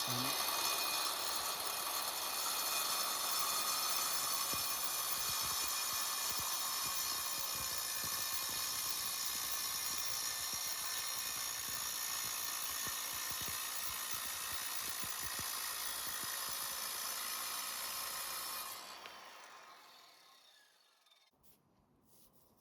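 Power saw fitted with a 7-inch diamond blade cutting masonry: a steady, high, gritty whine for about nineteen seconds, then it winds down and fades away.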